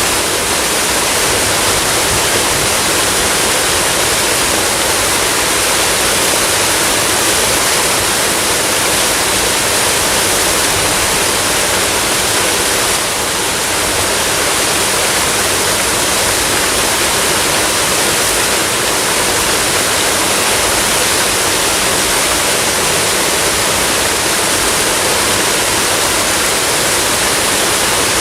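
Waterfall: water pouring and splashing in a steady, dense rush.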